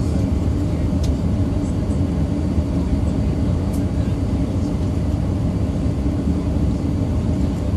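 Steady low rumble of Airbus A380 cabin noise, engines and airflow heard from inside the cabin on the landing approach.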